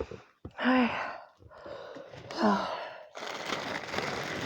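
Two brief, falling vocal sounds from a woman, like sighs or murmurs, followed about three seconds in by a steady hissing noise.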